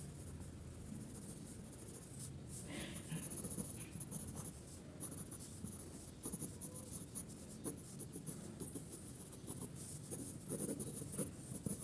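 Rapid, scratchy shading strokes of a drawing tool on paper.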